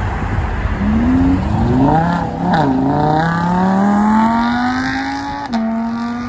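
A car's engine revving hard as it accelerates away, the pitch climbing steadily with a brief dip about two and a half seconds in and a step down near the end, as at gear changes.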